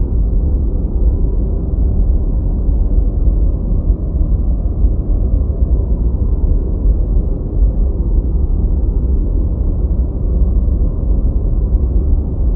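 Steady deep white noise: an even, low, dull hiss with its weight in the bass and no high end, unchanging throughout.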